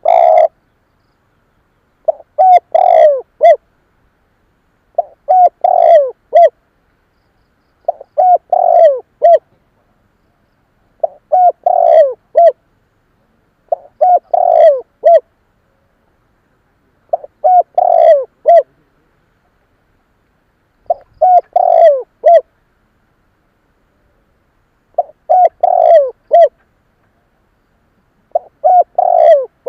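Spotted dove cooing: the same short phrase of several coos repeated about every three seconds, with silence between phrases.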